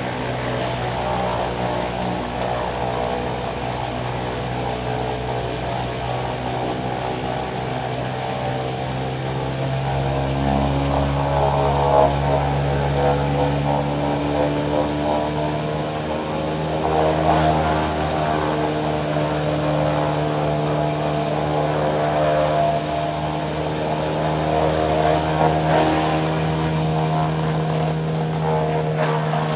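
A Vermeer WC2500XL whole-tree chipper running steadily at working speed, its engine a continuous drone. Its sound swells and grows rougher several times, about 12, 17, 22 and 26 seconds in, as wood is fed in and chipped.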